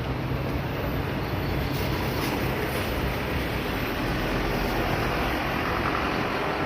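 Steady roadside traffic noise: the continuous rumble of passing vehicles' engines and tyres.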